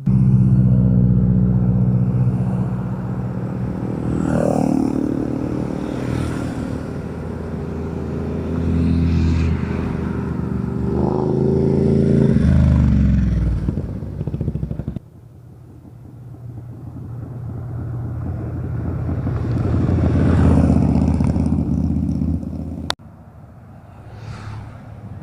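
Motorcycles accelerating past, engines revving up through several gear changes, then the pitch drops away as the bike passes. After an abrupt change about fifteen seconds in, another motorcycle approaches and passes loudly. A quieter one follows after a second abrupt change near the end.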